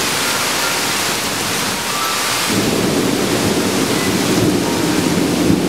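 Heavy rain pouring in a severe thunderstorm, a steady loud hiss; about halfway through a deeper rumble joins it and stays.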